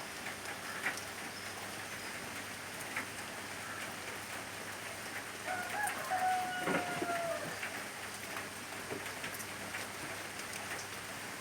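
Steady rain falling with scattered drips. About halfway through, a rooster crows once, a single drawn-out call lasting about two seconds.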